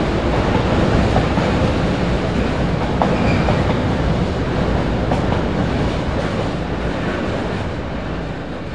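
Loaded freight wagons rolling past at speed: a steady rumble of wheels on rail with clatter over the joints. It fades near the end as the last wagons go by.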